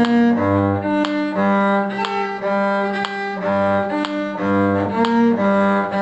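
A bowed string instrument plays a G minor arpeggio up and down the D string in short, even notes, with the open G string sounded between every other note.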